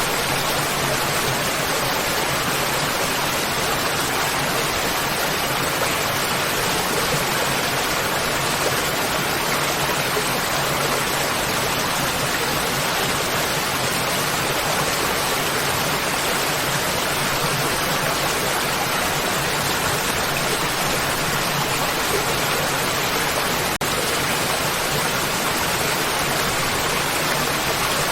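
Waterfall: water pouring and splashing in a steady, dense rush with no change in level.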